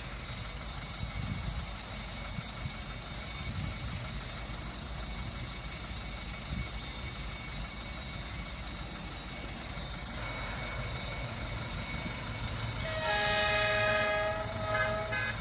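D19E diesel-electric locomotive and train passing with a steady low rumble, then the locomotive sounds its horn near the end: one blast of about two seconds followed by shorter toots.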